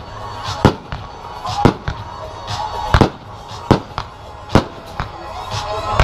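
Aerial fireworks shells bursting one after another, about ten sharp bangs in six seconds at an uneven pace, over music playing beneath them.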